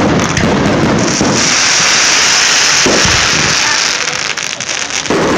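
Fireworks going off: a dense crackling, fizzing shower with a strong hiss, and further bangs about three seconds in and near the end.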